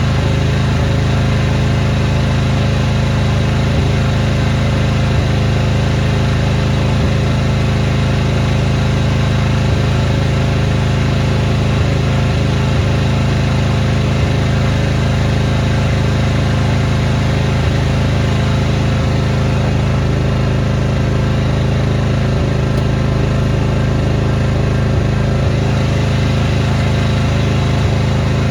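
Small engine of a snowblowing machine running steadily at a constant speed.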